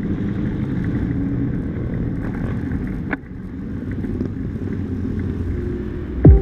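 Motor vehicle on the move: a steady rumble of engine and road noise that dips briefly about three seconds in, with a sharp knock near the end.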